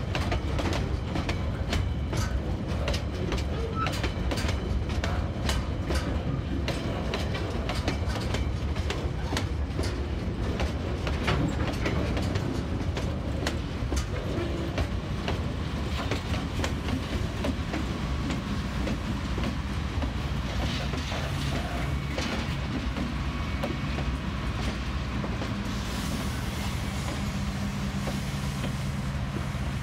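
Container freight train rolling past at shunting speed, the wagon wheels clicking and clanking over rail joints. In the last third the TasRail TR-class diesel-electric locomotives come by, adding a steady engine drone and a hiss.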